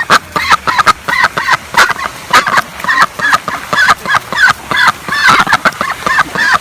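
A flock of domestic fowl calling, short repeated calls tumbling over one another several times a second without a break.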